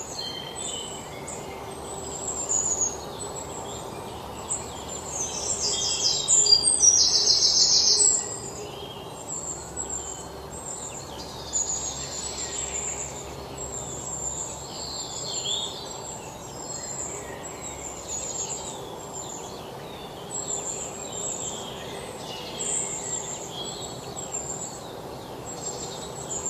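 Birds chirping, with many short high calls throughout over steady background noise. A loud, rapid trill runs from about six to eight seconds in.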